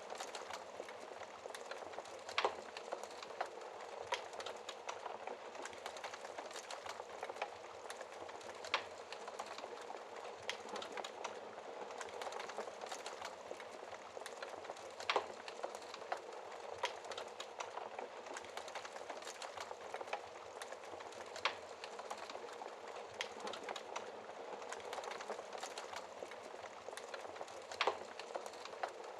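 Wood fire burning in a fireplace: a continuous fine crackle of burning logs with a louder sharp pop every few seconds.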